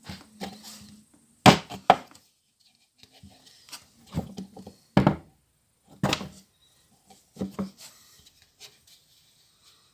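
Irregular sharp knocks and clatters of tools and parts being handled during car repair work, the loudest about a second and a half in and again around five and six seconds in.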